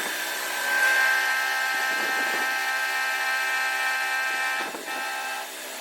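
A workshop machine tool running steadily with a constant high whine, a brief rushing swell coming about every two and a half seconds.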